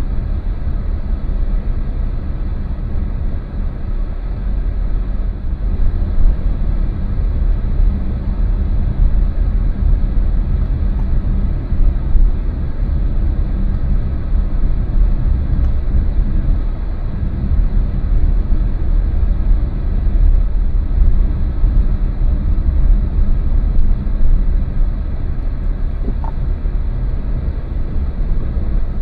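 Car being driven: a steady low rumble of engine and road noise that never breaks.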